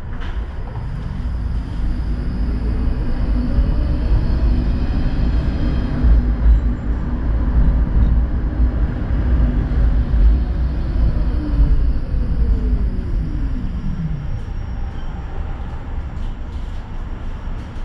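Tram running, with its traction motor whine rising in pitch as it gathers speed, holding steady, then falling away about fourteen seconds in, over a steady low rumble.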